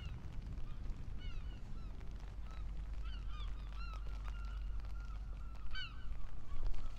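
Birds calling: short, arching calls repeated several times, bunched together near the middle and again just before the end, over a steady low rumble.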